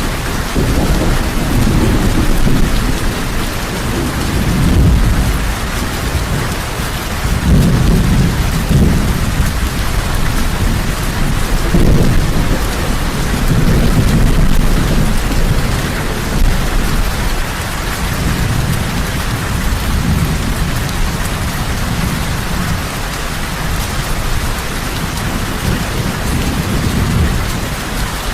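Heavy rain falling steadily, with low rumbles of thunder that swell and fade every few seconds.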